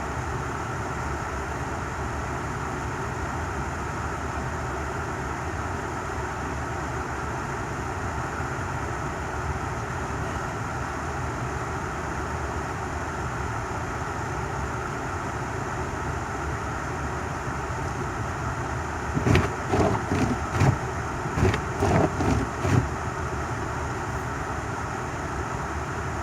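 Steady hum of a car running, heard from inside the cabin. About three quarters of the way through, a short run of irregular thumps or knocks.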